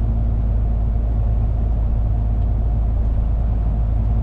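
Heavy truck's engine and road noise heard from inside the cab while driving: a steady low drone with an even rush of tyre noise.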